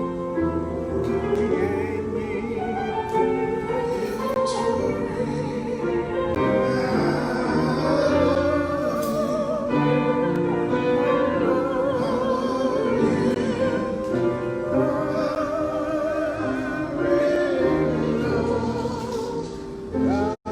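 Church music: singing with vibrato over sustained instrumental accompaniment.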